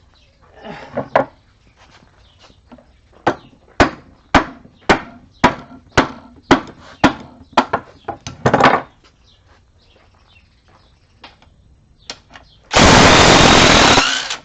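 A run of about a dozen sharp hammer blows, roughly two a second, in the work of knocking a stubborn seal out of an NP229 transfer case. Near the end there is a loud, steady rush of noise lasting about a second and a half.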